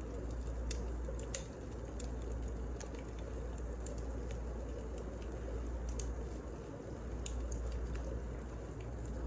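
Wood fire burning in a fireplace: a steady low rumble with sharp, irregular crackles and pops every second or so.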